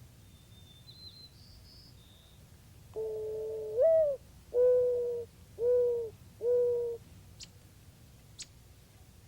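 Mourning dove song: a longer first coo that rises at its end, followed by three shorter, lower coos. Faint high chirps of small birds come before it, and two sharp ticks follow.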